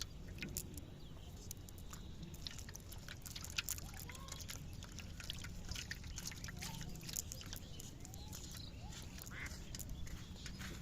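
Outdoor ambience with many small sharp clicks and splashes and a scattering of short rising animal calls over a steady low rumble.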